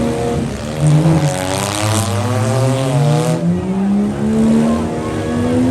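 Demolition derby vehicles' engines revving hard, their pitch climbing steadily, with a rush of hissing noise for about two seconds in the middle.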